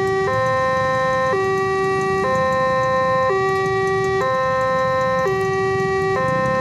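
Electronic warning alarm at a railway level crossing, sounding in two alternating tones, high then low, each held about a second. It signals that a train is approaching and the barriers are coming down.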